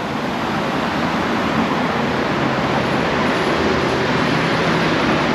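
Steady rushing vehicle noise with a faint low hum, slowly growing a little louder.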